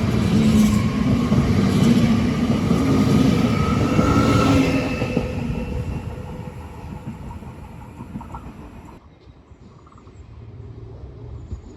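Train passing through a station, loud with a whine over the rolling noise, then fading away over several seconds as it leaves.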